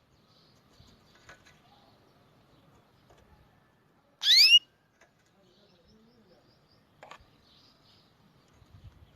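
A songbird gives one short, loud, upward-sliding whistled call about four seconds in, with faint scattered chirps around it.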